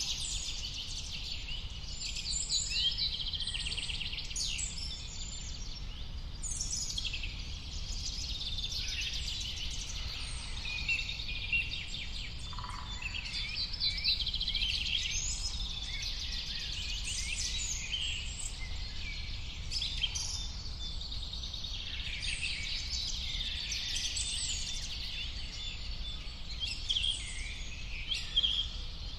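A dense chorus of many birds singing and calling at once, overlapping chirps and trills, over a low steady rumble.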